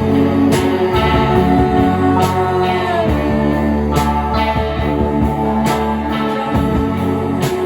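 Live rock band playing an instrumental passage: electric guitars over bass and drums, with a guitar note bending downward about three seconds in.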